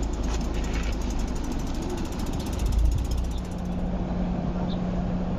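An MTR East Rail Line R-train electric multiple unit approaching at speed, heard from the trackside as a steady rumble with rapid fine clicking. About three and a half seconds in, a steady low hum takes over.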